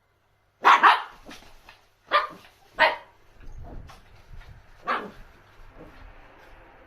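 Dog barking, about five sharp barks over four seconds: a quick double bark first, two more about two seconds in, and a last one near the five-second mark.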